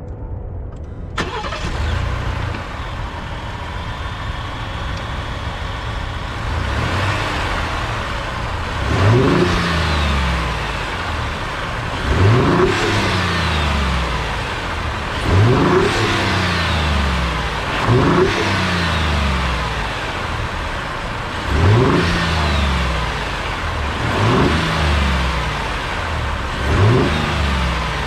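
2019 Ford F-150's 3.5L EcoBoost twin-turbo V6 starts about a second in and settles into a steady idle. From about nine seconds in it is revved in seven quick blips, two to three seconds apart, each rising and falling back to idle.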